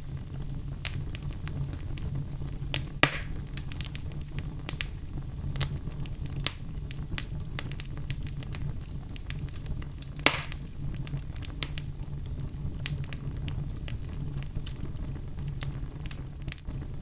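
Wood logs burning in a fireplace, crackling with many scattered small clicks and two louder pops, about three seconds and about ten seconds in, over a steady low rumble.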